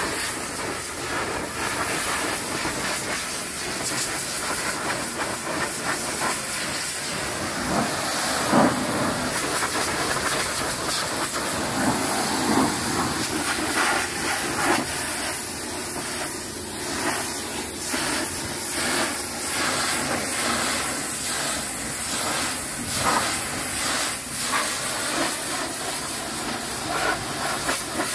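Pressure washer jet spraying a hauled-out sailboat's hull, a steady hiss of water that changes slightly as the jet moves.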